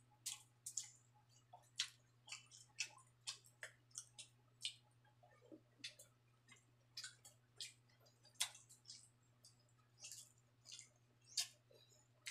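Faint mouth sounds of a person chewing rice and cooked pork offal: irregular short wet smacks and clicks, a few a second. A faint steady low hum runs underneath.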